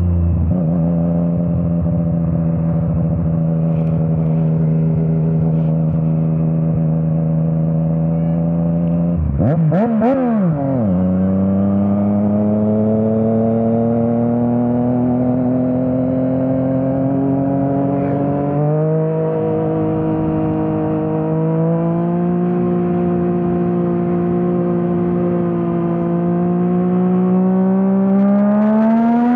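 Yamaha MT-09's three-cylinder engine through an Akrapovič exhaust, ridden on the road with a steady note. About a third of the way in the revs blip sharply up and straight back down, then the note climbs slowly, steps a little past the middle, and climbs again near the end.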